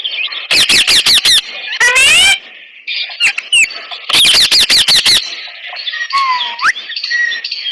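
Indian ringneck parakeet screeching: a rapid string of about six sharp, loud calls, a longer call, then another rapid string about four seconds in. Near the end comes a short whistle that dips and then rises.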